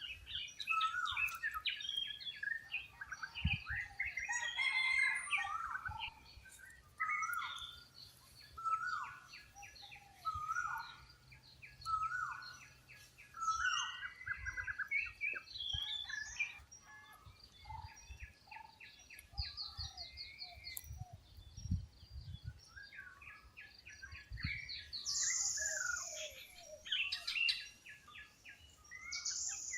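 Several wild birds calling and singing at once: a repeated downward-swooping call about every second and a half over rapid trills and chirps, with a few brief low thumps.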